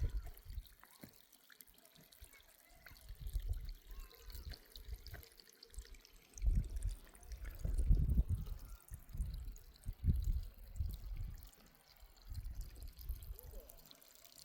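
Water trickling, with irregular low rumbles swelling and fading through it.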